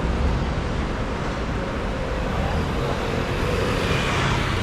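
Steady city street noise with road traffic going by.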